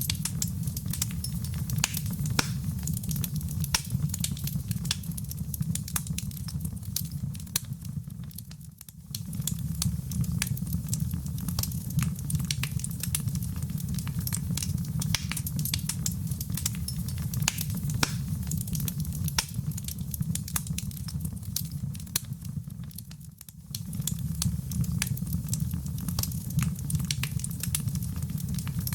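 Wood fire in a fireplace crackling steadily, with many sharp pops and snaps over a low rumble. Twice the whole sound briefly drops away for about a second.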